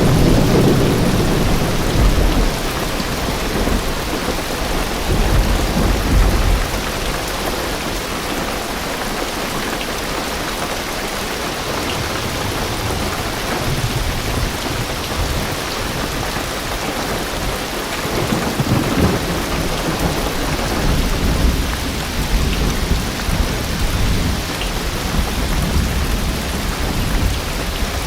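Heavy rain drumming steadily on a car's roof and windows, heard from inside the car, with deep rumbles of distant thunder rolling underneath, strongest at the start, about five seconds in and again from the middle onward.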